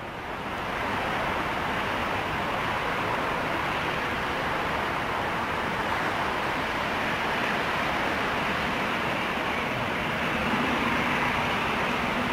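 Jet airliner engines running, a steady noisy rush that swells in the first second and then holds level; a faint low hum joins near the end.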